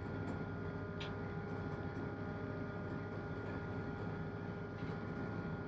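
Steady drone of a tugboat's 1000-horsepower main engine running, with a low rumble and a steady whine over it, and a faint tick about a second in.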